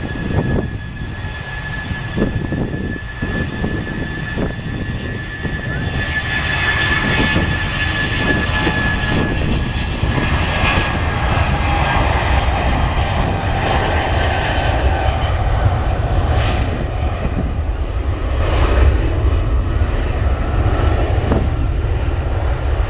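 Airbus A319-131's IAE V2500 turbofan jet engines at takeoff thrust, a deep rumble under a high steady whine. The noise grows louder about six seconds in, and the whine fades later on as the airliner moves away.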